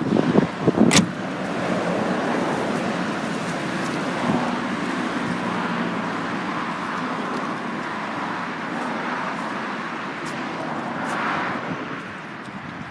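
Steady outdoor road-traffic noise, with a single sharp click about a second in.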